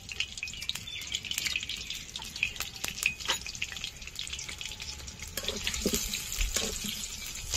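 Potato pieces frying in hot oil in a kadai: a steady sizzle dotted with many small crackles and pops, with a few duller knocks between about five and a half and seven seconds in.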